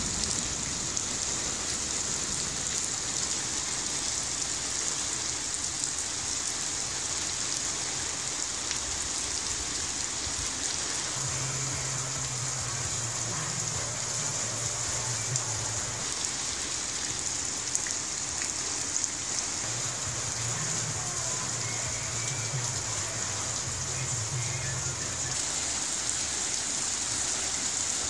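Steady rain falling on pavement and a car hood, an even hiss with scattered drops ticking. A low hum comes and goes twice beneath it.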